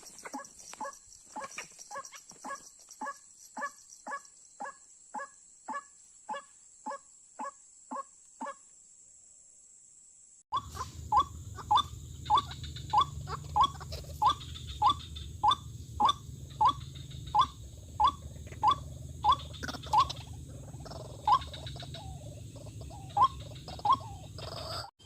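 White-breasted waterhen (dahuk) calling, a short note repeated over and over at about two calls a second. The calls pause for a couple of seconds, then start again louder over a steady low hum and turn less regular near the end.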